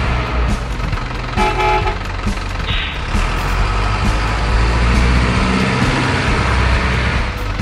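Truck engine sound running steadily, from the RC truck, with a short horn toot about a second and a half in.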